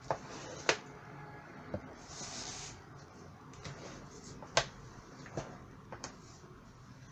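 Paper being handled and worked flat by hand: scattered light taps and clicks against the work surface, with a brief rustle a little over two seconds in.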